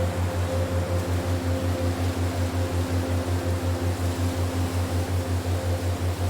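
Relaxation soundtrack: a low hum pulsing about five times a second over a steady hiss, with faint held tones higher up.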